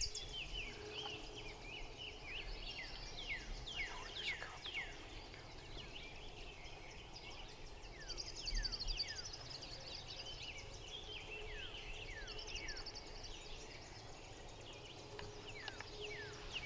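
Small birds chirping faintly over quiet field ambience: many quick downward-sweeping chirps, with a brief high trill about halfway through.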